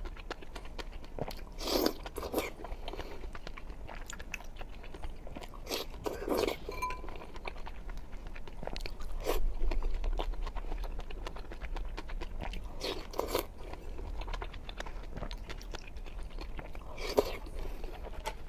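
Close-miked chewing and crunching of food, with many small mouth clicks and louder crunches about two, six, thirteen and seventeen seconds in.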